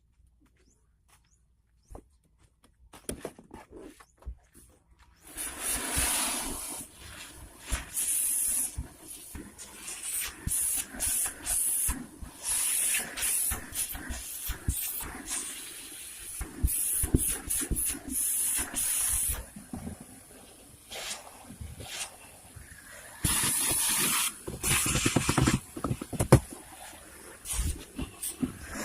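Vacuum cleaner cutting in about five seconds in and running with a high hiss, its loudness rising and falling over and over as it is worked over the car's interior.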